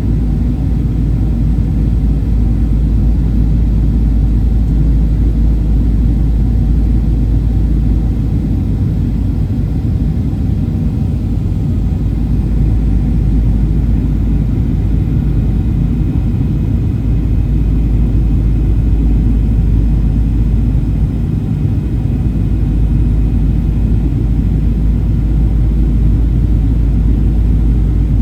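Steady low rumble of a Boeing 737-800 in flight, heard inside the cabin: engine and airflow noise.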